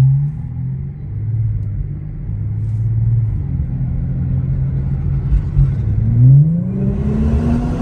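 Infiniti Q50 3.0T's twin-turbo V6 heard from inside the car, pulling steadily and then accelerating. Its revs climb from about five and a half seconds in, and a rush of noise swells in near the end.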